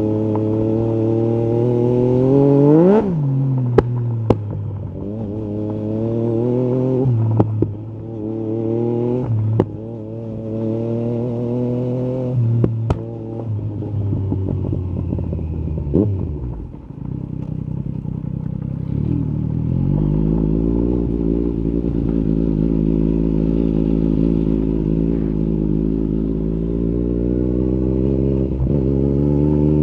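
Yamaha MT-09 SP's three-cylinder engine through an Akrapovic carbon exhaust, revving up through the gears several times with a drop in pitch at each shift, with a few sharp clicks in between. It settles to a steady cruise about two-thirds of the way in.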